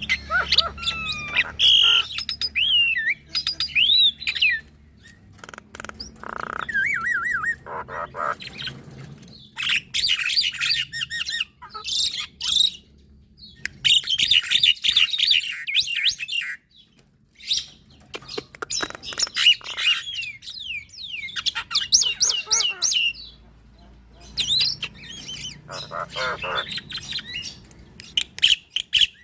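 A Javan myna and a black-winged myna singing in repeated bursts of varied whistles, squeaks and chatter, with short pauses between the phrases.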